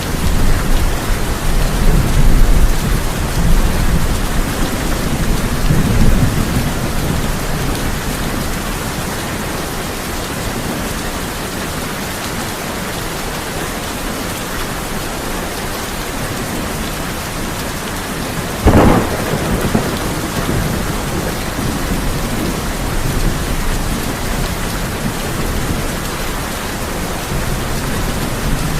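Steady heavy rain drumming on a tin roof, with thunder rumbling through the first several seconds and a sudden sharp thunderclap a little past the middle, trailing off in a low rumble.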